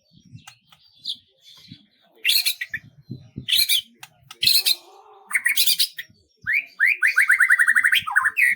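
A songbird singing: a few short, scratchy chirps, then a fast trill of evenly repeated notes near the end, closing with a falling note.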